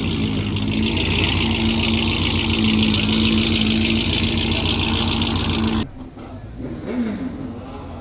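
A car engine running steadily and loudly close by, holding one pitch. About six seconds in it cuts off abruptly to a quieter engine revving, its pitch sweeping up and down.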